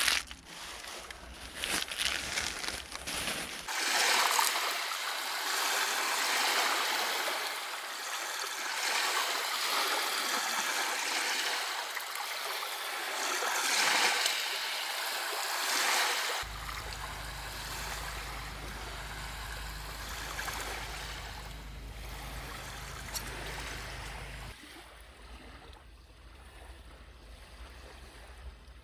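Steady rain falling, heard as an even rushing hiss across several short shots, with the sound changing abruptly at each cut.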